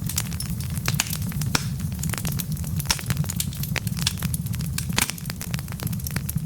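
Wood fire burning, its logs crackling with frequent sharp irregular pops over a steady low rumble of flame.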